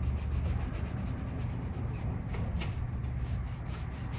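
Rubbing against a painting canvas: a steady run of quick, scratchy strokes as paint is worked away.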